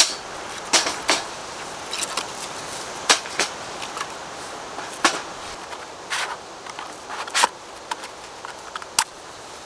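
Irregular sharp clicks and crunches, about one or two a second and some in quick pairs, over a steady hiss.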